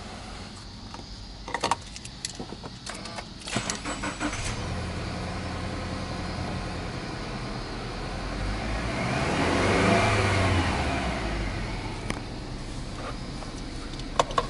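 Subaru Exiga 2.0i-S's EJ20 flat-four engine being started: clicks and cranking for a few seconds, then it catches about four seconds in and settles into a steady idle. About nine to eleven seconds in the engine note rises once and falls back to idle.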